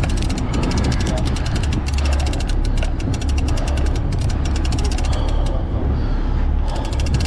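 Big-game fishing reel clicking rapidly as it turns under a heavy fish, over a steady low drone. The clicking breaks off for about a second near the end, then resumes.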